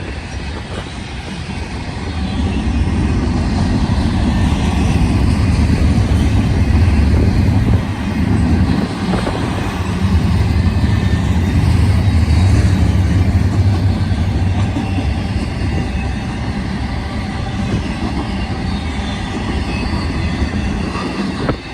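Double-stack intermodal freight train passing at close range: a steady, loud rumble of wheels on rail with a deep drone underneath.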